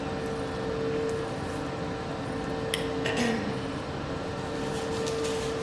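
Soft eating and handling sounds at a table: a few faint clicks and a short rustle about three seconds in, over a steady hum.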